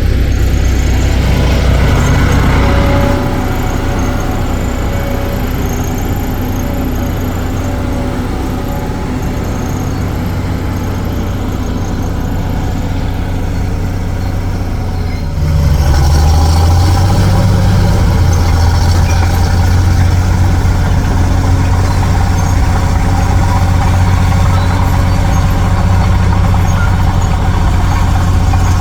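Heavy dump truck's diesel engine running steadily. It drops back a little about three seconds in and comes up louder again about fifteen seconds in.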